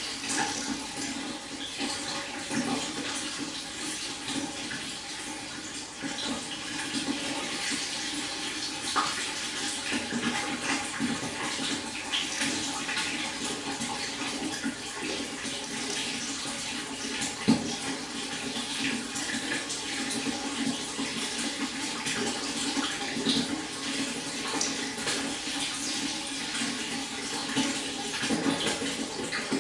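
Stream water flowing and babbling over rocks in a steady rush, with small irregular splashes and gurgles and one sharper splash a little past halfway.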